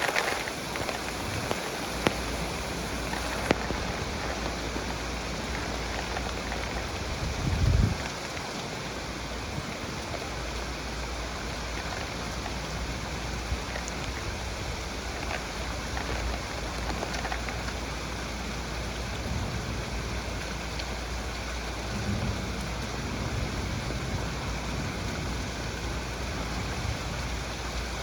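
Heavy rain falling steadily, with a few sharp drop taps and one short low thump just before the eight-second mark.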